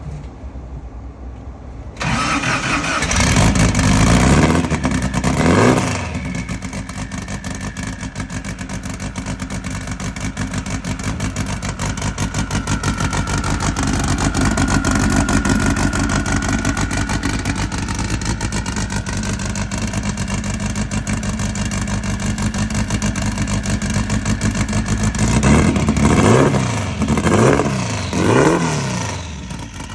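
Turbocharged 2276cc air-cooled VW flat-four drag engine starting about two seconds in, revved twice, then idling steadily. Near the end it is blipped three times in quick succession.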